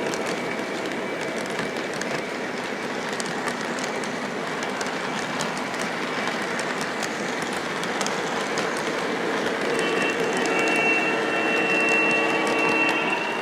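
Model train running on its track: a steady rolling clatter with many small clicks from the wheels over the rails, and a motor whine that comes in near the end.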